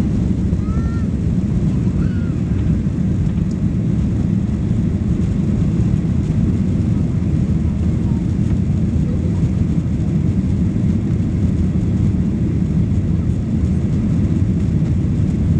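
Steady, loud low rumble of a Boeing 737 Next Generation's CFM56 turbofan engines during takeoff, holding an even level throughout.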